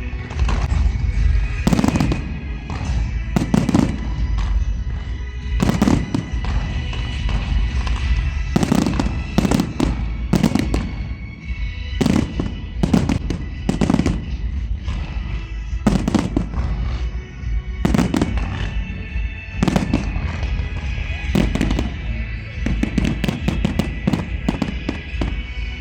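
Fireworks going off in a string of sharp bangs, one every second or two, with booming low ends. Music plays steadily behind them.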